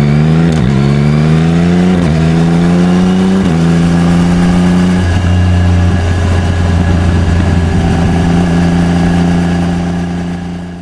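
Yamaha XSR900's inline-three engine, breathing through an SP Tadao Power Box full titanium exhaust, accelerating through the gears. Its pitch climbs and drops back at three quick upshifts in the first few seconds, then holds steady at cruising speed.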